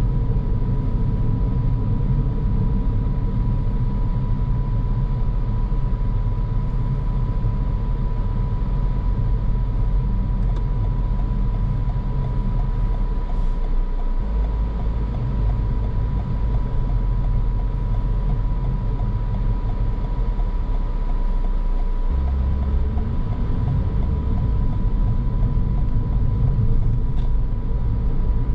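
Car driving noise: a steady low rumble of engine and road with a thin steady whine above it. The rumble shifts in pitch about halfway through and again near the end as the speed changes.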